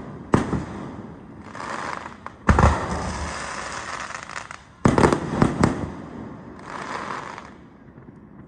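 Fireworks going off: five sharp bangs, the last three close together about halfway through, with hissing between them and a last stretch of hiss before it dies away near the end.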